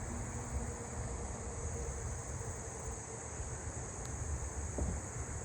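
Steady high-pitched insect chorus of crickets and katydids over a low, even rumble.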